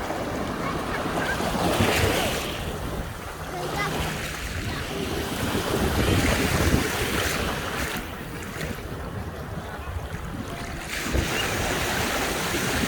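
Sea waves breaking on a sandy beach, the surf swelling and falling back about every four to five seconds, with wind buffeting the microphone.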